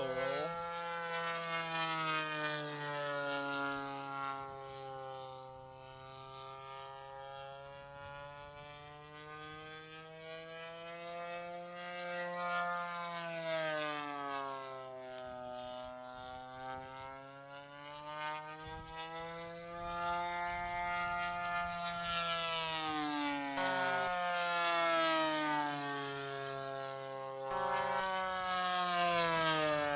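The 65cc gas engine and propeller of a 1:5 scale RC P-51 Mustang in flight, a continuous buzzing note whose pitch rises and falls slowly over several seconds as the plane passes and changes throttle.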